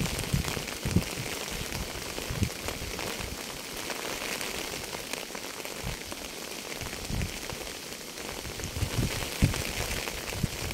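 Steady rain falling, a dense even hiss, with scattered short low thumps at irregular moments.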